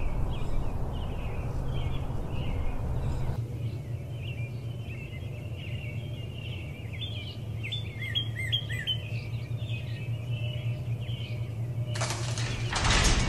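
Small songbirds chirping over and over, over a steady low hum. About twelve seconds in, a loud rough noise starts and drowns them out.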